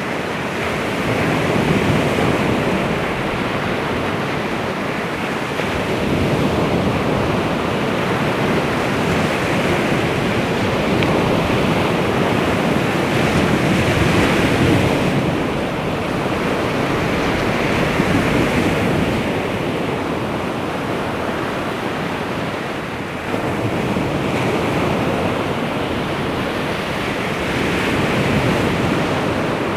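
Baltic Sea waves washing onto the shore: a steady rush of surf that swells and eases every few seconds.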